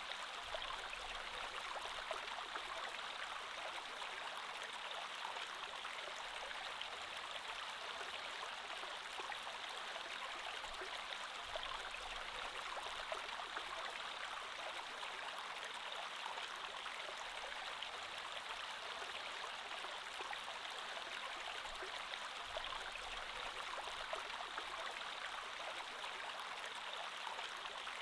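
Creek water flowing steadily over stones, a continuous rushing with fine splashes and trickles.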